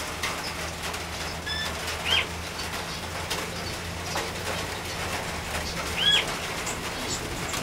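Small aviary birds calling: a few short, high chirps, the clearest about two seconds and six seconds in, over a low steady hum.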